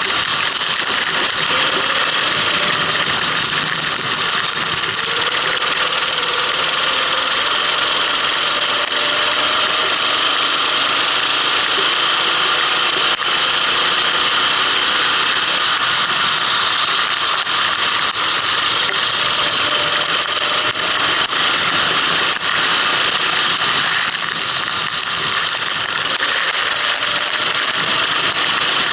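Kart engine running on track, its pitch rising and falling as the kart speeds up and slows, heard from on board under a loud, steady hiss of wind and wet spray.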